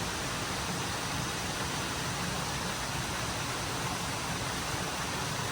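Valley stream water rushing steadily over rocks, an even hiss with no change.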